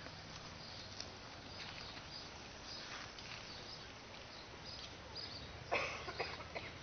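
Quiet outdoor ambience with scattered short bird chirps, and one brief louder sound near the end.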